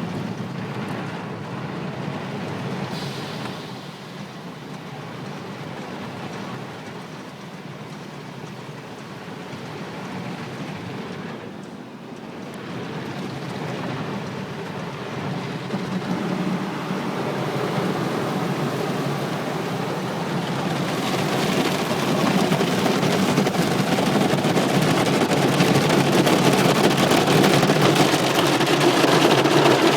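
Automatic car wash running: water spray and wash equipment pelting the car, a steady rushing noise that grows louder and brighter through the second half.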